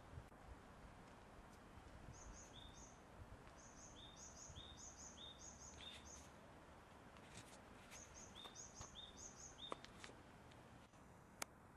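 A small bird chirping in quick runs of short, high notes, with brief pauses, over faint steady outdoor background noise. A couple of sharp clicks near the end.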